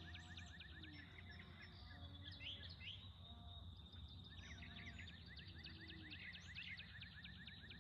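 Faint birdsong: birds chirping in fast trilling runs, one spell at the start and another from about halfway on, over a steady high tone and a low hum.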